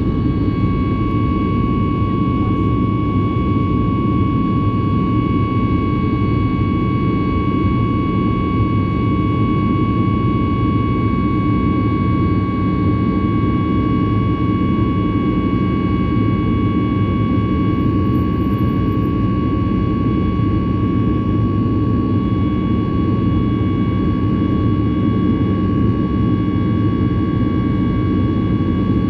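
Ryanair Boeing 737 jet engines heard from inside the cabin: a loud, steady rumble with a steady high whine over it, unchanging throughout.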